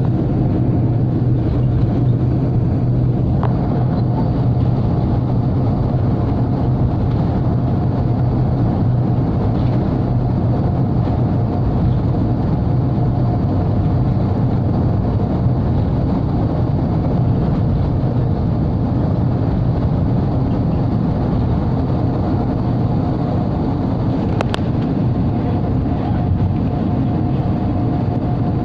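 Steady, loud drone of a passenger airplane heard from inside the cabin: a low engine hum under the rush of air, with a faint steady whine above it and an occasional small click.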